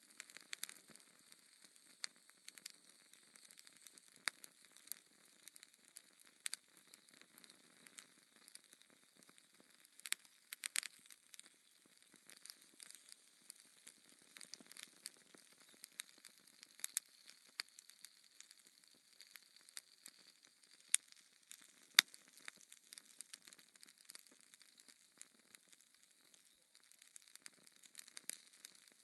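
Wood fire crackling in a fireplace: irregular sharp pops and snaps over a soft hiss, with a couple of louder pops about three-quarters of the way through.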